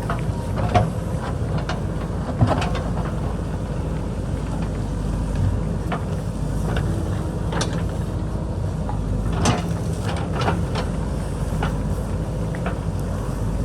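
JCB backhoe loader's diesel engine running steadily under working load, with scattered sharp knocks and clanks from the digging.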